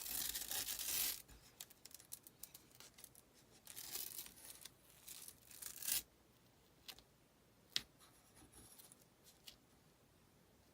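Scraping and rustling from hands working a craft piece, in bursts: a longer stretch at the start and two more about four and six seconds in. After these come a few light clicks.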